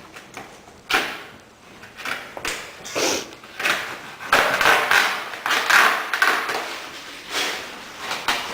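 Irregular rustling and knocks from bags of firewood being handled at a fireplace.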